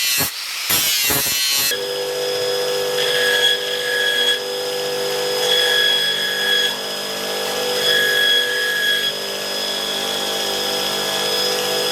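Electric power tool in a knife-making shop running steadily with a motor hum. A higher whine comes and goes three times, for about a second each, as if the work is pressed against it. It is preceded by about a second and a half of harsh hiss broken by a few sharp knocks.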